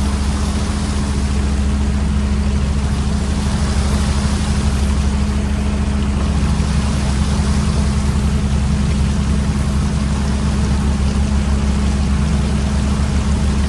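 Fishing boat's diesel engine running steadily: a low, even drone with a fine pulse, under a steady hiss.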